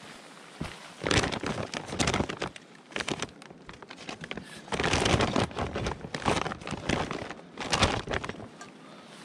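Rustling and crinkling of handled material in three spells: about a second in, around five seconds in, and briefly near the end.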